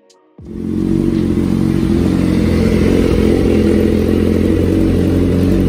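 BMW S1000RR superbike's inline-four engine running loud and steady through its exhaust, starting abruptly about half a second in.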